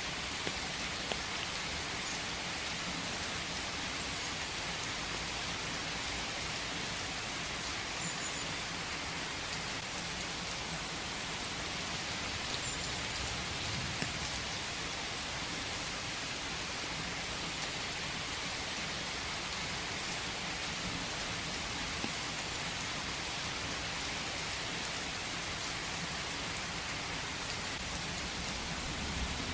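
Steady rain falling in a forest, an even hiss with scattered individual drop ticks.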